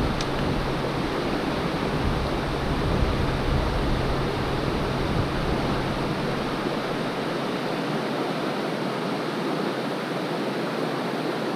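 Creek water running over rocks: a steady rushing hiss, with a low rumble underneath that fades out about seven seconds in.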